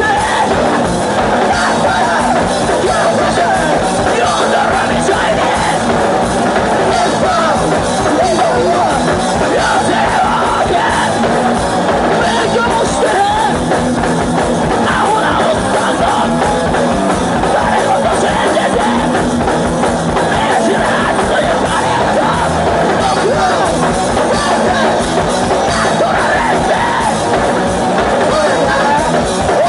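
Live hardcore punk band playing loud, with yelled vocals over a full band.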